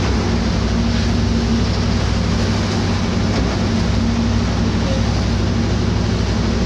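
Tour boat's engine running steadily with a low hum, under a constant rush of water and wind against the hull.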